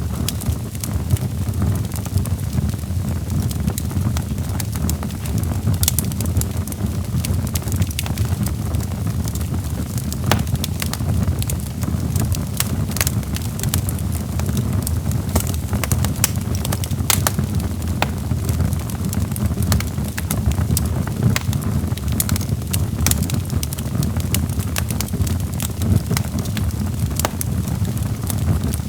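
Wood logs burning in a fireplace: a steady low rumble of flames with irregular sharp crackles and pops.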